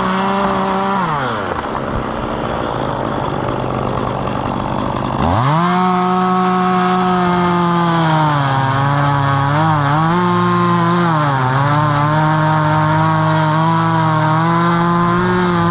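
Chainsaw running at full throttle, dropping to idle about a second in, then revving back up about five seconds in and held high, its pitch sagging and recovering several times as it cuts through wood.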